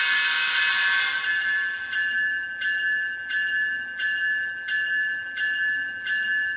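Sound decoder in an N-scale Tier 4 GEVO locomotive sounding the diesel horn, a steady chord that ends about a second in. Then the locomotive bell rings about one and a half times a second and stops near the end.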